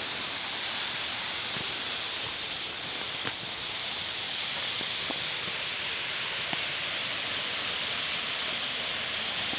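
Steady rushing hiss of a waterfall, with a few faint clicks scattered through it.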